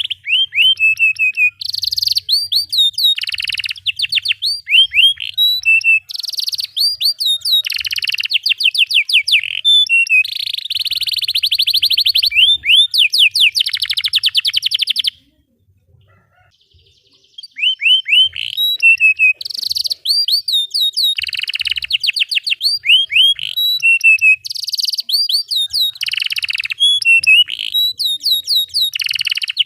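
Domestic canary singing long, fast trills and rolls of rapidly repeated high chirps. The song breaks off for about two seconds midway, then carries on.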